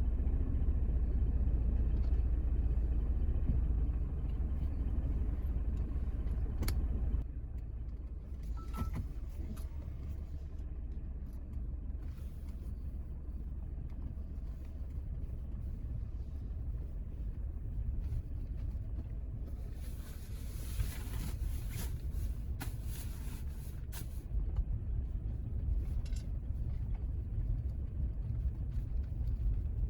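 A car driving down a steep, unpaved road: a steady low rumble of engine and tyres, with a few brief knocks.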